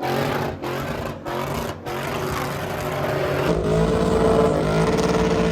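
Vehicle engines running, chopped by several abrupt cuts in the first two seconds, then a steadier engine drone that grows louder from about three and a half seconds in.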